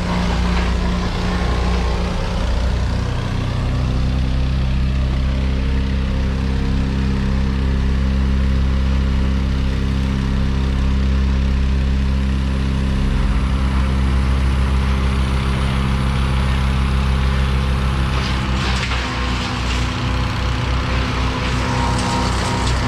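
A large engine running steadily at a constant speed, with a few knocks and cracks near the end.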